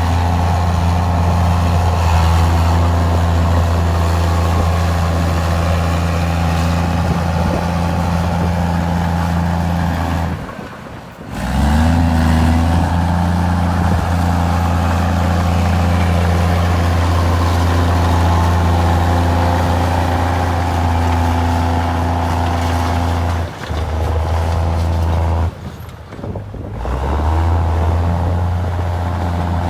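Komatsu D53E bulldozer's diesel engine running with a steady low drone as the dozer works. The sound almost drops out twice, briefly, and after the first gap the engine note rises as it picks up.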